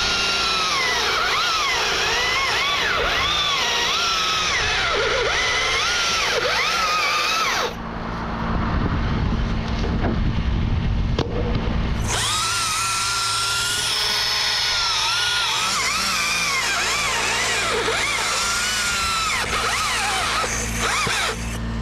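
Battery electric chainsaw (Husqvarna T542i XP) cutting, its motor whine dipping and rising in pitch as the chain bites and frees. It stops for about four seconds a third of the way in, then resumes. A steady low hum runs underneath.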